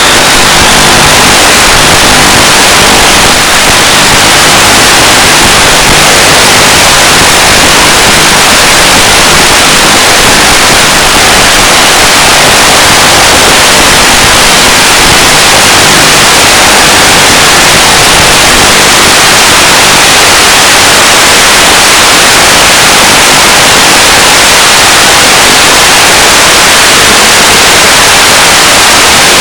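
Loud, steady static hiss from the audio channel of a 1.3 GHz analog FPV video receiver, with no other sound.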